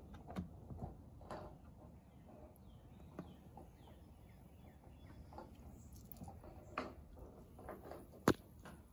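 Faint scattered clicks and light taps at irregular intervals, with one sharper click near the end.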